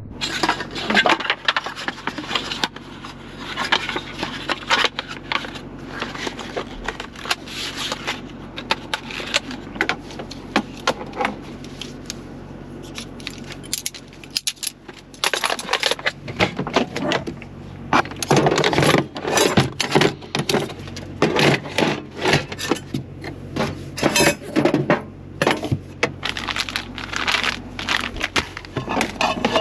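Dishes and utensils clattering: a busy run of clinks and knocks as kitchenware is handled, busier and louder in the second half, over a steady low hum.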